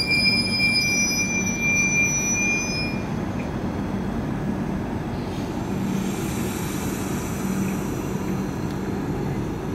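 Brahmaputra Mail passenger coaches rolling along the platform: high steady wheel squeal that stops about three seconds in, over a steady rumble of wheels on the track. A faint hiss comes in about halfway.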